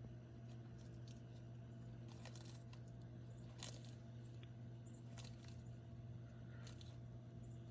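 A tortoise biting and chewing plant food: a few faint, scattered crunches over a steady low hum.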